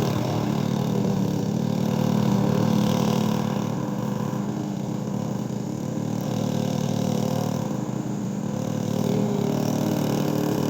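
Small gasoline engine of a walk-behind lawn mower running steadily while cutting tall grass; its level dips slightly in the middle and comes back up near the end.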